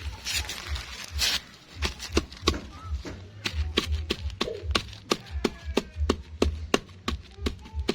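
Bird feed pellets being pounded to a fine powder: sharp hard taps with low thumps under them, irregular at first, then a steady beat of about four strokes a second.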